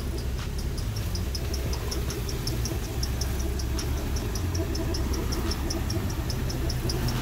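1988 Chevrolet Caprice engine idling steadily with the AC compressor on, a low even rumble. Crickets chirp over it in a steady high pulse, about four or five chirps a second.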